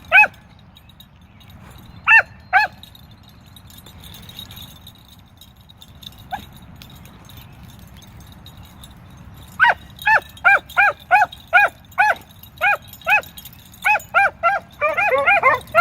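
Beagles barking while trailing a rabbit. A few single barks come first; from about ten seconds in they give a steady run of barks, about two a second, and near the end a second dog's barks overlap.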